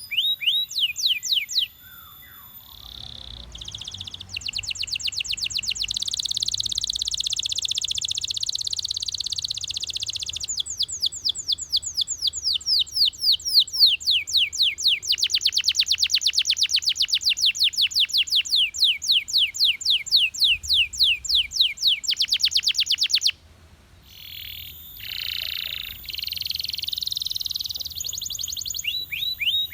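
Belgian canary singing a long song of fast trills: buzzy rolls, then runs of rapidly repeated down-slurred notes, changing phrase every few seconds with a brief pause near the end.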